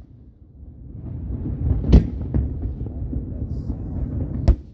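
Fireworks exploding: a low rolling rumble with two sharp bangs, one about two seconds in and one near the end.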